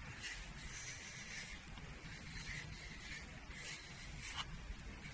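A comb drawn through a cat's fur in a series of faint brushing strokes, about one a second.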